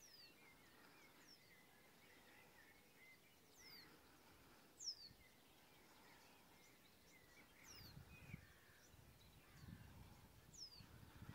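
Faint birdsong: short high calls that slide downward, repeating every second or two, over softer warbling. A low, uneven rumble, like wind on the microphone, comes in about two-thirds of the way through.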